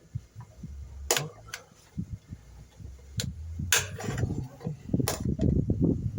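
Sharp metallic clicks and clunks, about six of them, over low, uneven handling noise, as the hydraulic lifters (tappets) of an opened engine are pressed to check whether they have filled with oil; several are still soft.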